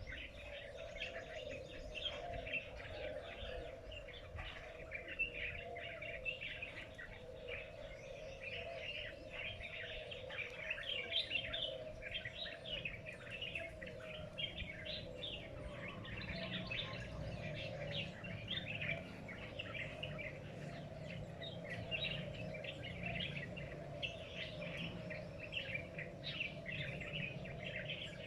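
Small birds chirping continuously, a dense overlapping chorus of short, high chirps, with a steady low drone underneath.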